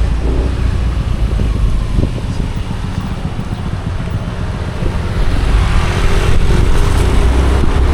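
Motorcycle riding along a road: a steady low engine rumble with road noise, getting louder and fuller about five seconds in.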